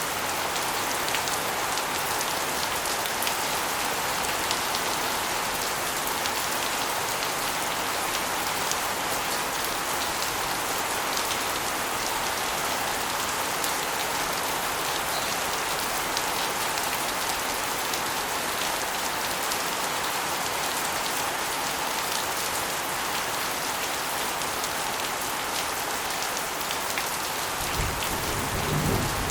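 Steady rain, with water spilling off an asbestos roof and splashing onto a concrete floor and walls in a dense, continuous patter of drops. A brief low rumble comes in near the end.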